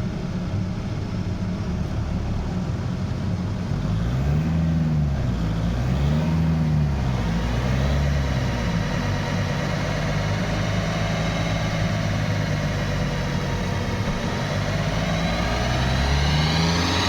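Seat Ibiza 1.9 TDI four-cylinder turbodiesel idling, blipped twice in quick succession a few seconds in, with the revs starting to climb near the end as it begins to accelerate.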